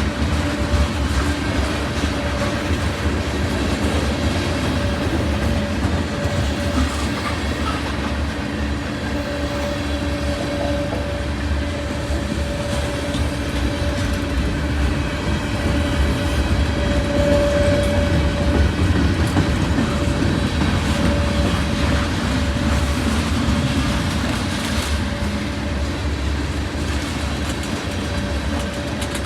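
Freight train rolling past, a steady rumble of steel wheels on rail with clicking over the rail joints and a faint steady tone running through it.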